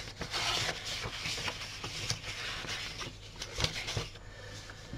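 Large sheets of cardstock rustling and sliding against one another as they are handled and laid down, with a few light taps.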